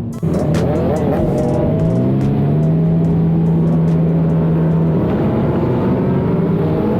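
Can-Am Ryker three-wheeled motorcycle engine running under way, its pitch climbing over the first two seconds as it accelerates, then holding steady.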